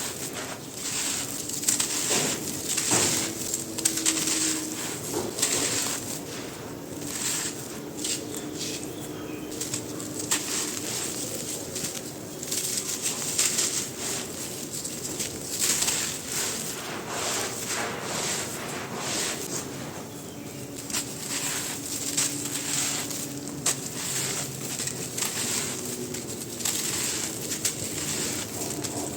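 Dry black grainy sand shapes crumbling, with dense irregular crunching crackles throughout.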